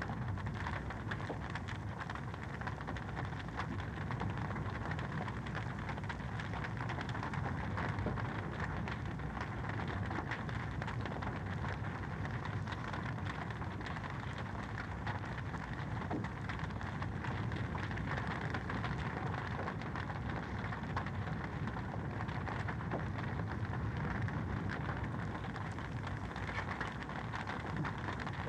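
Wood fire crackling in a fireplace: a steady, dense crackle of many small pops over a low rumble.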